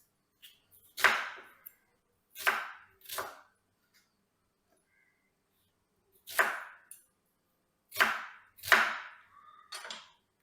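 Kitchen work with utensils: about seven separate sharp knocks and scrapes, bunched in pairs and spaced irregularly, each dying away within about half a second.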